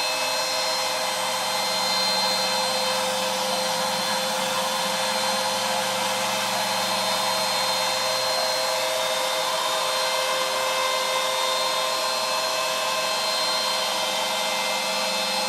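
CNC router spindle running steadily with a high whine as a 1/4-inch ball nose router bit mills the border of a carved wood relief panel in a finishing pass.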